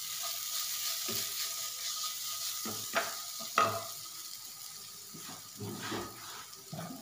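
Onion-tomato masala with ginger paste sizzling as it fries in oil in a non-stick kadai, stirred with a spoon scraping the pan. A couple of sharp knocks come about three seconds in as the spoon is set down in the pan, and the sizzle carries on, slowly fading.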